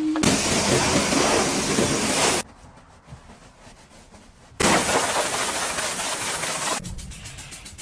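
Two bursts of loud, even hissing, about two seconds each, starting and stopping abruptly, with a quieter gap between; near the end a fainter rapid ticking.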